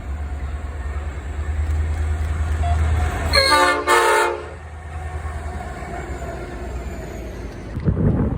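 A goods train's locomotive rumbles low and steady as it approaches. It sounds its horn once, for about a second, a little over three seconds in.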